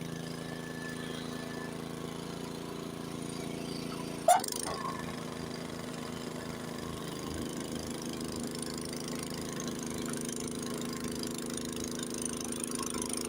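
Honda HS80 snowblower's single-cylinder engine running steadily under load while clearing snow, with one brief sharp sound about four seconds in.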